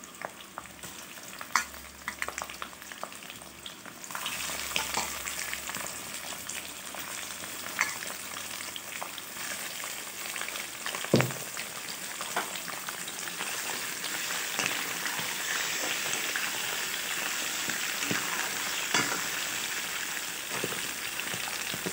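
Chicken gizzards and liver frying in hot oil in a wok: a light sizzle that turns louder and fuller about four seconds in, as more pieces go into the oil, with spattering crackles. A spatula stirs the pieces, with a sharp knock about eleven seconds in.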